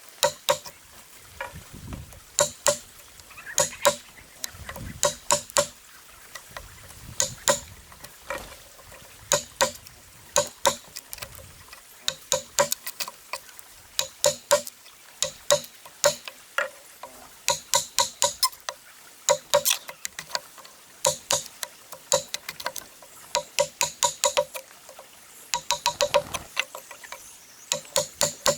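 Rapid hammer taps on metal, in quick groups of a few strikes with short pauses between, each strike giving a brief ringing ping.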